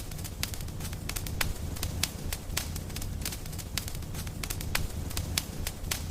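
Wood fire in a fireplace crackling, with sharp, irregular pops several times a second over a steady low rumble of the flames.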